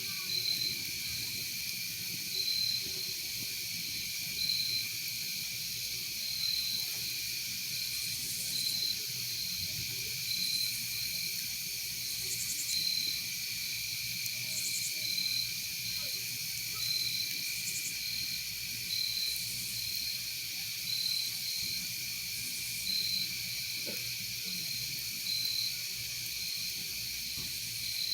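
Crickets and other insects calling at night: a steady high trill, a short chirp about once a second, and a louder buzzy call about every two seconds.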